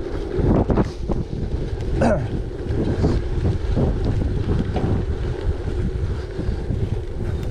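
Wind buffeting the microphone over the rolling noise of a gravel bike's tyres, with scattered short crunches and clicks.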